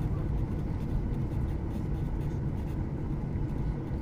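Steady low cabin rumble inside a Boeing 737-800 airliner: the CFM56-7B engines and airflow over the fuselage, with faint steady tones above it.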